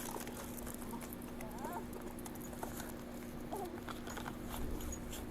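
Body-camera audio at a burning car crash: a steady two-tone hum under scattered crackling clicks and brief, distant cries.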